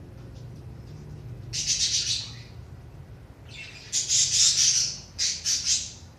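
Budgerigars chattering and squawking in three bursts of high, scratchy calls, over a low steady hum.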